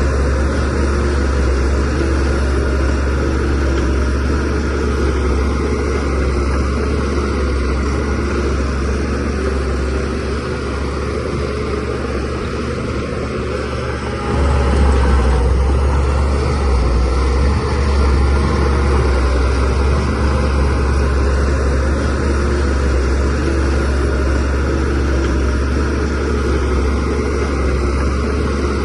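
Diesel engine of a DH17C3PRO bulldozer running steadily while the machine pushes soil, its low drone stepping up in loudness about halfway through as the engine takes on more load.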